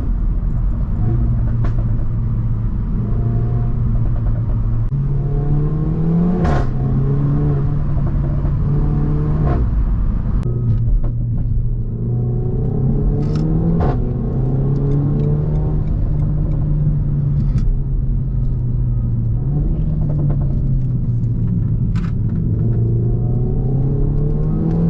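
Renault Mégane 4 RS 280's turbocharged four-cylinder engine running through a catless exhaust, pulling hard: the note climbs under acceleration and drops sharply at each upshift, three times, with a short crack at the gear changes. Between the pulls it runs at a steady cruise.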